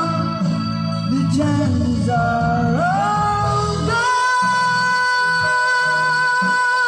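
A sung ballad with instrumental backing. The melody moves through several notes, then settles into one long held note about four seconds in.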